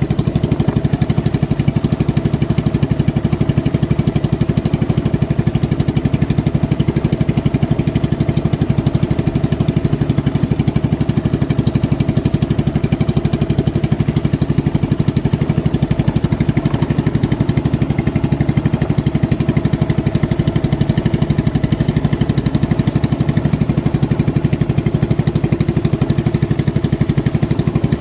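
Boat engine running steadily at high revs, a loud, even drone with a rapid pulsing beat and no change in pitch.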